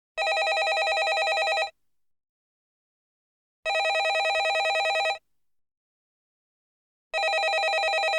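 Landline telephone ringing in a repeating cadence: three rings of about a second and a half each, with about two seconds of silence between, each ring a rapid trill.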